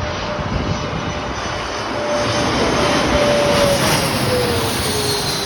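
Regional jet passing close by on arrival, its twin turbofan engines running with a rushing roar and a whine that swells to its loudest in the middle and drops in pitch as it goes past. The jet is a CRJ-200LR with General Electric CF34 turbofans.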